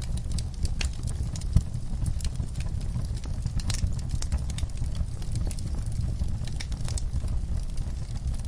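Wood-burning fireplace crackling: frequent sharp pops and snaps over a steady low rumble of the fire.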